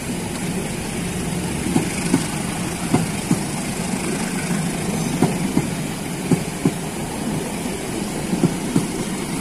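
Economy-class passenger coaches of a departing diesel-hauled train rolling past, their steel wheels clicking irregularly over the rail joints, over a steady low hum.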